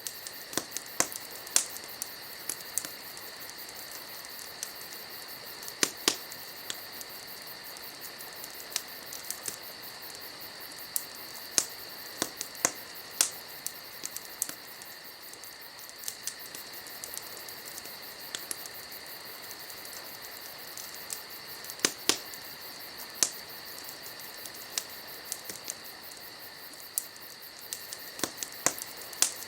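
Wood fire crackling, with irregular sharp pops and snaps every second or so. A steady chorus of crickets chirps in the background.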